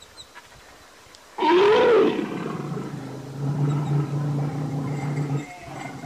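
Black bear giving one short, loud roar about a second and a half in, rising then falling in pitch. A low steady drone follows.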